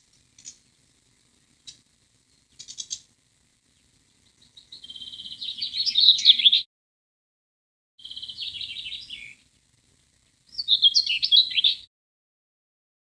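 Songbirds singing: a few short chirps, then three longer phrases of fast, high twittering trills with silent gaps between them. The first long phrase grows louder before breaking off.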